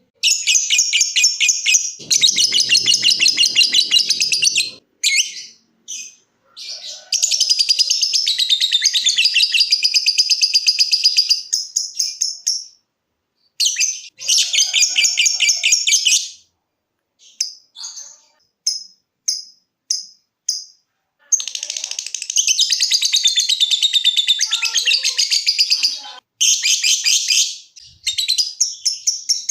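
Lovebird singing in long bouts of rapid, shrill, chattering trills, the 'ngekek' song, each lasting a few seconds. Short single chirps fall between the bouts.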